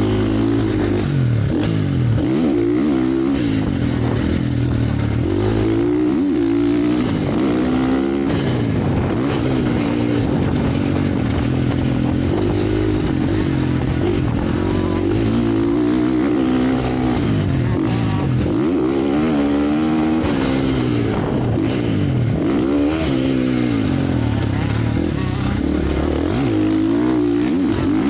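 Motocross motorcycle engines revving up and down again and again, the pitch climbing and dropping every couple of seconds as the throttle is worked.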